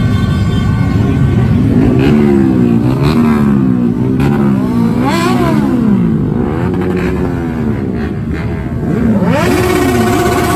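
Several big sport motorcycles revving their engines, the pitch climbing and dropping again and again, with the revs of different bikes overlapping over a constant low engine rumble.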